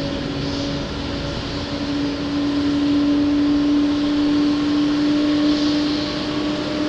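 Jet airliner engines running: a steady rushing noise with a single held hum, growing somewhat louder through the middle and easing off near the end.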